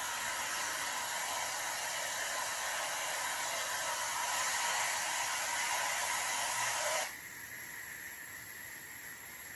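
Steady hissing noise that cuts off abruptly about seven seconds in.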